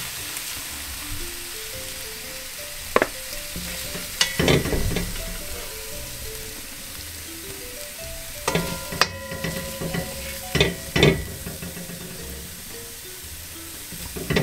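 Browned beef cubes sizzling in a large metal pot while a metal spoon scoops them out, scraping and knocking against the pot several times, with a few clanks that ring briefly around the middle. Light jazz music plays underneath.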